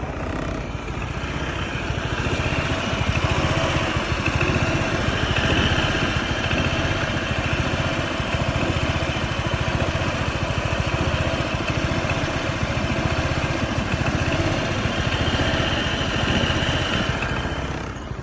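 Honda PCX 125 (JK05) scooter's single-cylinder engine idling at a standstill with a steady, even pulsing throb. This is the abnormal shudder the owner reports on the new scooter once it has been ridden about five minutes and brought to a stop.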